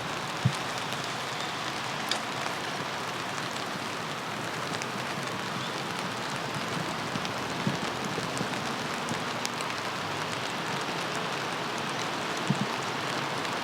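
Steady rain falling, an even hiss with a few louder single drop hits now and then.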